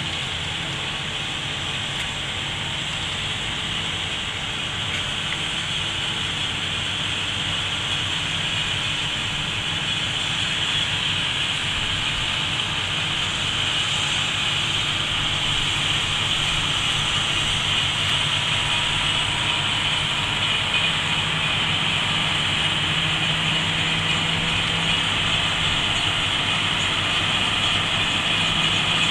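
Tractor engine running steadily with a low drone, gradually getting louder.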